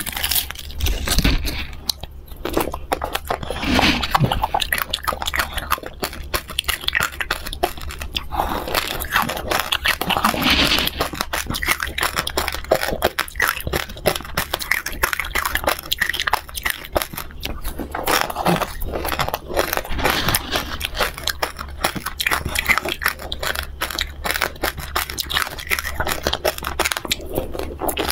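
Close-miked crunching and chewing: bites through a hard-coated bar on a stick crusted with crunchy toppings (dry noodles, grains, sprinkles), a steady run of crisp crackles with louder bursts now and then.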